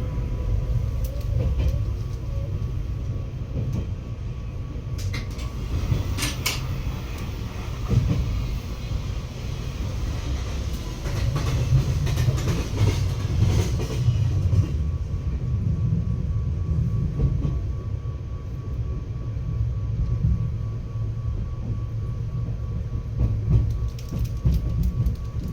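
Inside an Izukyu 2100 series Resort 21 train running on the line: a steady low rumble, with sharp clicks of the wheels over rail joints about six seconds in and again near the end.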